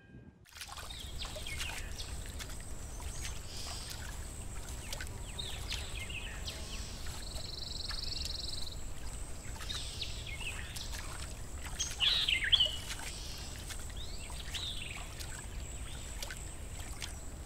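Birds chirping and calling over a steady low background rumble, with a longer trill about halfway and the loudest calls a little past two-thirds through.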